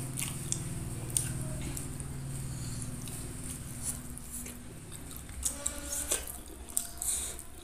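Close-up mouth sounds of eating fried chicken by hand: chewing with wet smacks and scattered sharp clicks, over a steady low hum that fades out around the middle.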